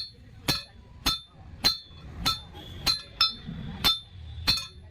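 Blacksmith's hand hammer striking a steel rod on an anvil in a steady rhythm, about one blow every 0.6 seconds, each blow ringing briefly. One extra quick blow falls about three seconds in.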